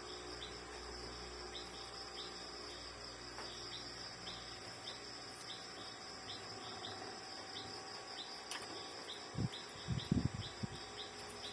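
Steady high-pitched insect chirping, a continuous trill with short chirps repeating about three times a second. A few soft low thumps come near the end.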